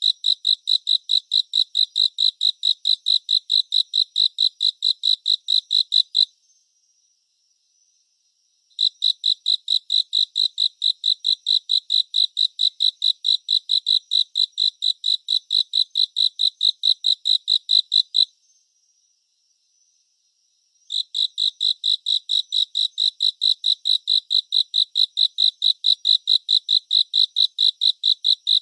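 Cricket chirping in a fast, even train of high-pitched pulses, about five a second. It stops twice, for two or three seconds each time, then resumes.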